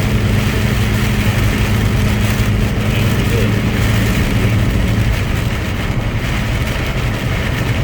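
A semi-truck's engine running steadily while driving, with road noise, heard from inside the cab. The higher part of the engine note fades about five seconds in.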